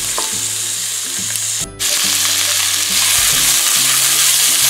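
Diced green capsicum, onion and garlic sizzling in hot oil in a nonstick pan while being stirred with a spatula. A little under two seconds in the sound cuts out for a moment, then the sizzle comes back a bit louder.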